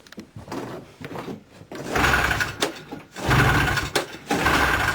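Recoil pull-starter on a Ski-Doo Enticer 340 snowmobile yanked three times, each pull a short whirring crank of its two-stroke engine that does not catch. The owner suspects stale gas.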